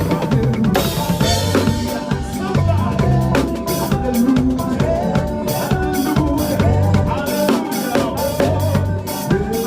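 Drum kit played with bass drum, snare and rimshots in a busy makossa groove, over backing music with steady pitched notes.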